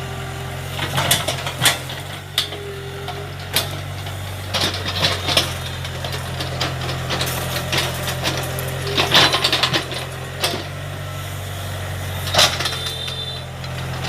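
Small excavator's diesel engine running steadily, with repeated sharp cracks and knocks scattered over it, the heaviest about a third of the way in and again near two thirds.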